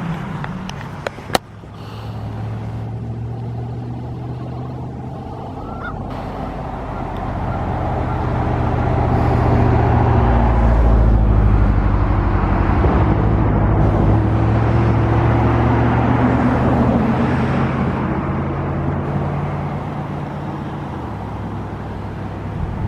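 Motor vehicle engine and road noise with a steady low hum, growing louder toward the middle and easing off later. A single sharp click comes about a second in.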